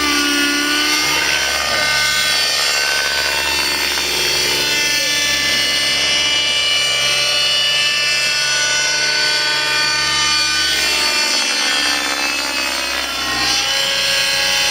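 Nitro model helicopter's Redline 56 glow engine and rotor blades running hard in flight, the engine pitch dipping and climbing again as it is thrown through 3D manoeuvres. The engine is running with its mixture left unchecked after an exhaust change, too lean.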